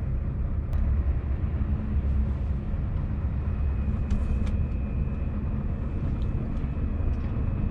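Scania V8 truck engine idling with a steady low rumble, heard from the cab, with a few sharp clicks.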